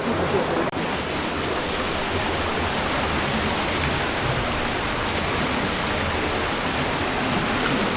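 Steady rush of a waterfall, water pouring and splashing in an even roar, with a momentary dropout just under a second in.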